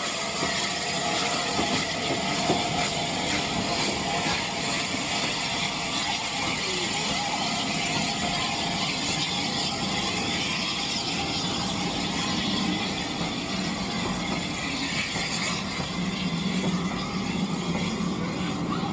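Train in motion on a heritage railway line: a steady rattle and clatter of wheels and running gear on the track.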